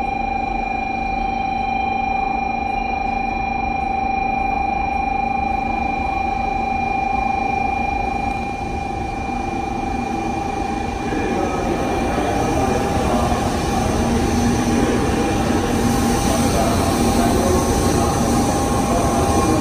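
Bullet train at a station platform: a steady high electrical tone sounds throughout, and train rumble builds and grows louder from about halfway through.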